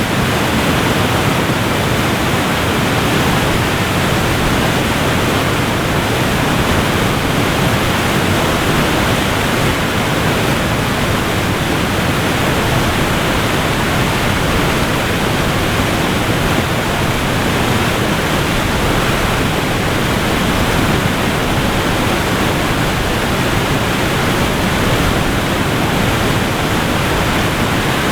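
Waterfall rushing: a loud, steady, even noise of falling water, unchanging throughout.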